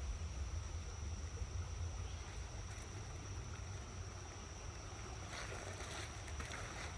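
Wind rumbling on the microphone outdoors, under a steady high-pitched tone. Irregular rustling crackles come in from about five seconds in.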